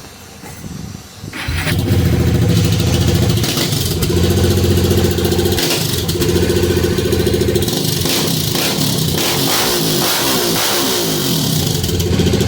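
Bajaj Dominar 400's single-cylinder engine starting and running loud through a newly fitted aftermarket Akrapovic exhaust. It catches about a second and a half in and runs on steadily, with the pitch rising and falling in the second half.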